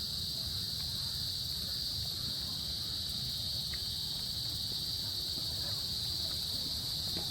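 Steady, high-pitched insect chorus, like crickets, over a constant low rumble.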